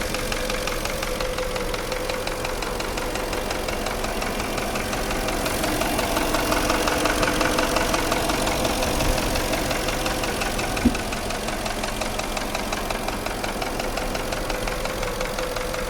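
Porsche Cayenne engine running with a rapid, regular knock. The knock is the sign of piston-group trouble: scored cylinder walls, typically on cylinders 5 and 6. A single sharp tick is heard about eleven seconds in.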